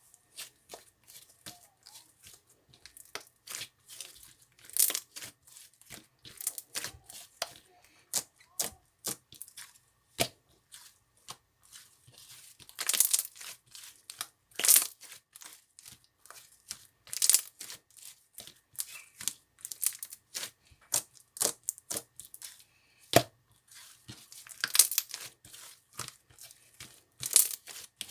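Slime being squished and stretched by hand, giving a dense run of irregular clicks and crackling pops, with a few louder pops scattered through.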